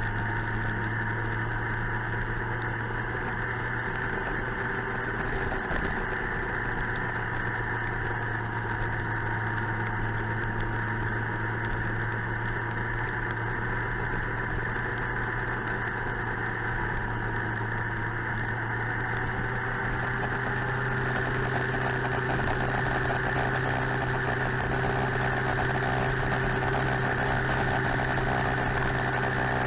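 Suzuki GSX-R 1000 inline-four engine running at a steady, even speed, getting slightly louder about two-thirds of the way through.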